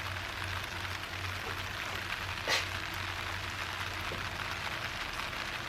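Steady background hiss over a low, even hum, with one short sharp sound about two and a half seconds in.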